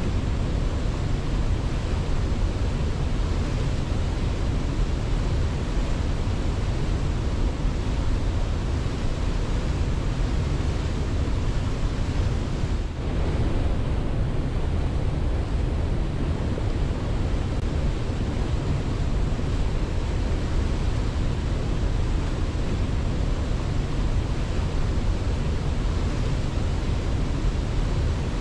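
Waterfall: a steady, unbroken rush of falling water, heaviest in the low end, with a brief dip in level about thirteen seconds in.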